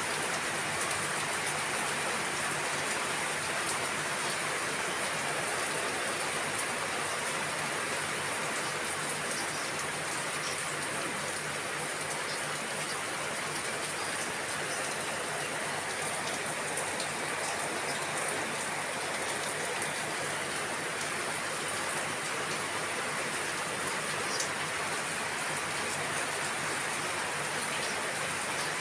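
Steady rain falling, a continuous patter with faint scattered drips.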